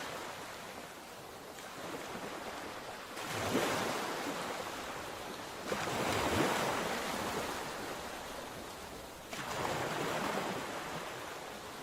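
Sea waves breaking and washing up the shore in three surges, one every few seconds.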